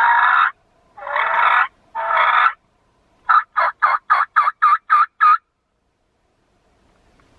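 Wild turkey tom gobbling: three long, harsh calls followed by a quick run of eight short notes, about four a second, that stops a little past halfway.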